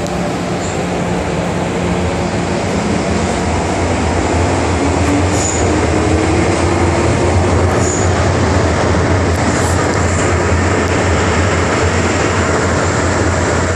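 MTR Island Line metro train running through the tunnel: a steady low hum and rumble, with a faint rising motor whine a few seconds in and brief high wheel squeals twice, around the middle.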